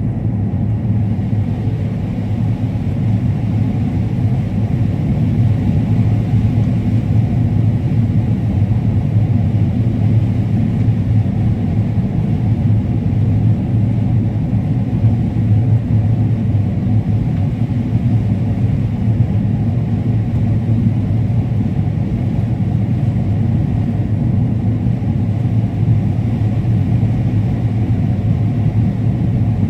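Combine harvester running steadily while harvesting corn, a constant low engine and machinery rumble with no change in speed.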